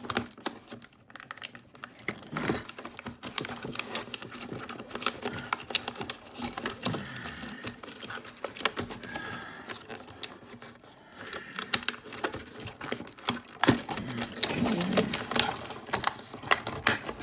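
Irregular clicking, tapping and crinkling of plastic toy-track parts and cardboard packaging being handled and pried at.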